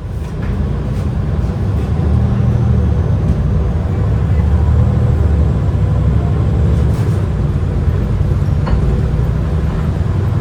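MAN ND323F double-decker bus engine running under load, heard from inside the bus: a loud low drone whose pitch shifts a few times as the bus accelerates, with a few faint rattles.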